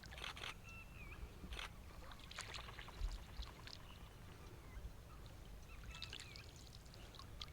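Flock of wild ducks calling on open water: scattered short calls and a few thin curved whistles, over a low steady rumble of water.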